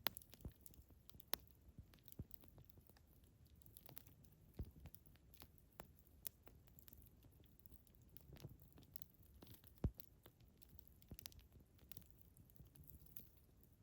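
Wood fire crackling: irregular sharp pops and snaps of burning wood, one louder pop about ten seconds in, over a faint low hiss.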